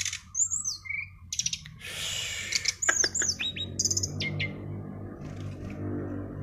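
Songbird singing a rapid series of sharp chirps and quick falling whistled notes, ending about four and a half seconds in. A low steady hum comes in underneath at about four seconds.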